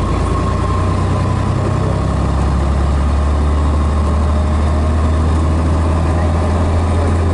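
Scania DS11 diesel engine of a Scania BR111DH / MCW Metropolitan double-decker bus running with a steady low drone, its pitch shifting slightly about two seconds in.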